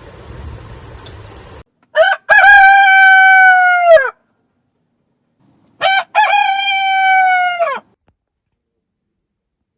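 Rooster crowing twice, with a pause between: each crow opens with short notes, then holds one long note that falls in pitch at the end.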